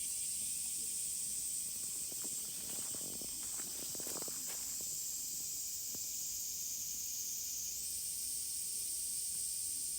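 Insects droning steadily at a high pitch; the drone drops a little in pitch partway through and jumps back up near the end. Faint rustling clicks sound about two to five seconds in.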